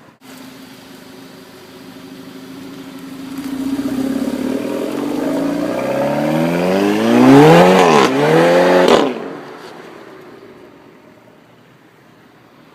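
Turbocharged 2.0 four-cylinder of a Volkswagen Golf Mk6 GTI on an APR RSC turbo-back exhaust, accelerating hard with its revs climbing and getting louder. Near the loudest point the pitch drops once and climbs again, then the sound cuts off suddenly.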